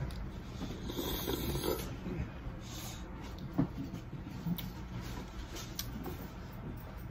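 Close-miked eating sounds of someone chewing crab: wet mouth noises and breathing, with a few sharp clicks of shell or utensils.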